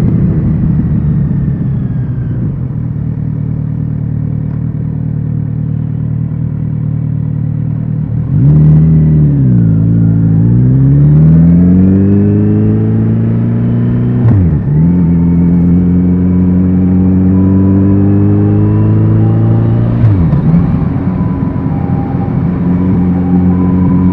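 Kawasaki Z900RS inline-four motorcycle engine through its exhaust, running steadily, then opened up about a third of the way in and accelerating hard. The revs climb and drop sharply at two upshifts.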